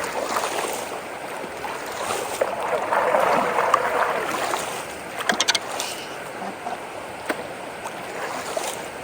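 Water rushing down into a culvert inlet through a whirlpool. The rush swells about two to four seconds in, and a quick cluster of sharp clicks comes a little past the middle.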